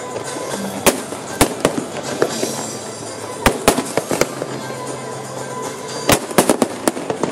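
Fireworks display: about a dozen sharp bangs from bursting shells at irregular intervals, bunching into a quick run about six seconds in, over a steady background rumble.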